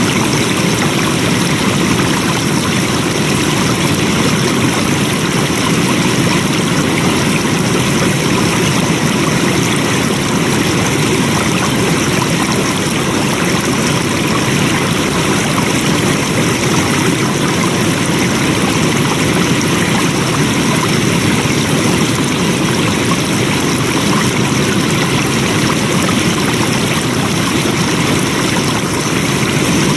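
Flowing water, a steady, even rush that holds without breaks or changes.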